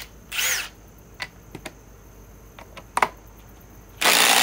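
A few light clicks and knocks, then about four seconds in a cordless Milwaukee M18 impact driver starts up and runs loud.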